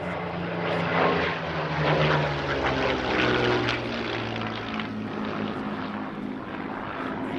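A piston-engined WW2 fighter flying past. The propeller engine note is loudest a second or two in, then drops in pitch as the aircraft passes and moves away.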